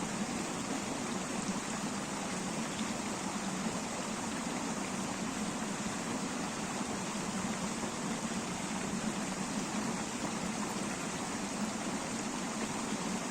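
River water rushing steadily over stones, a constant even wash of noise.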